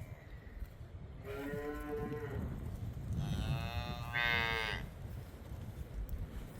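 Miniature cattle mooing: two long moos, the first about a second in and the second, louder, about three seconds in.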